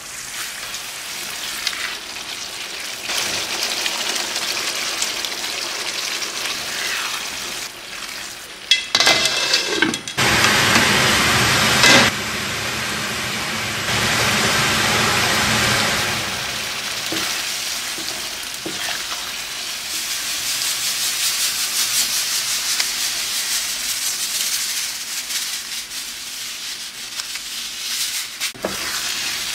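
Food sizzling as it fries in hot oil in a pan, with stirring. The sizzle's level jumps abruptly several times in the middle.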